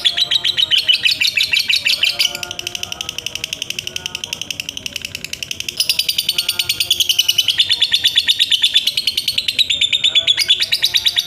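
Lovebird giving a long 'ngekek' chatter: an unbroken run of fast, high, rattling chirps, many a second, dropping in volume from about two seconds in and rising again about six seconds in.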